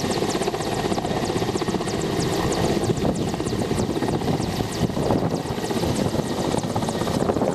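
Helicopter rotor running with a fast, steady chop of the blades.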